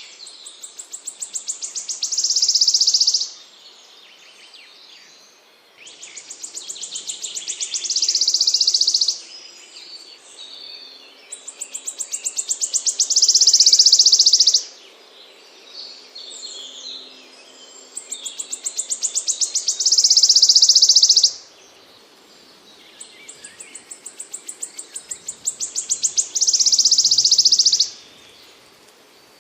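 A small songbird repeating one song phrase five times, about every six seconds: a rapid series of high ticking notes that speeds up and grows louder, ending in a loud, dense buzzing trill that cuts off abruptly.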